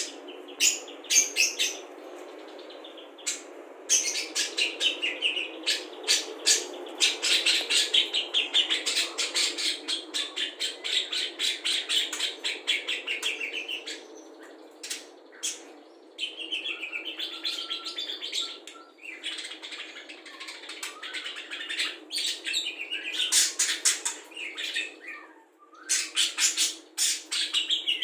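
Budgerigar trained to mimic other songbirds, singing a fast chattering warble of rapid clicks and chirps, in long bouts broken by short pauses.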